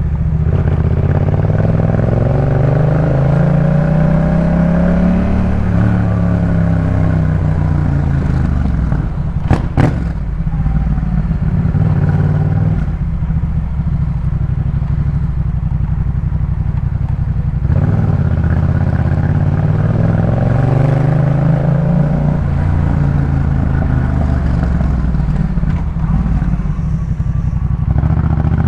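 Yamaha MT-07 parallel-twin engine through a Jeskap K4 full exhaust, pulling up through the revs and then dropping off, twice over. A single sharp crack comes just under ten seconds in.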